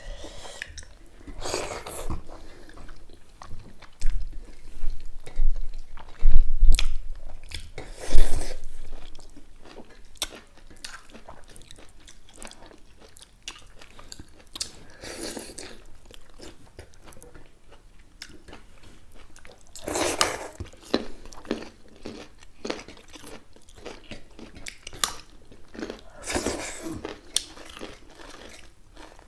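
Close-up chewing and crunching of food eaten by hand, with crisp bites of raw cucumber and carrot coming in scattered bursts. A few heavy low thumps fall between about four and eight seconds in.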